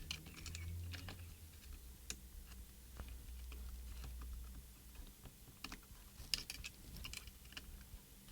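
Faint, scattered small clicks and taps of plastic parts being handled as small wiring connectors are fitted into a radio transmitter's circuit board, with the sharpest clicks a little past the middle, over a faint low hum.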